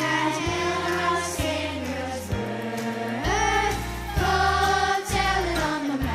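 A choir singing a Christmas song with band accompaniment and sustained bass notes.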